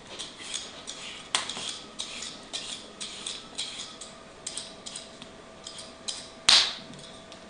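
Metal cooking utensils clinking and tapping in an irregular run of light clicks, with two louder metallic clinks that ring briefly, about a second in and near the end.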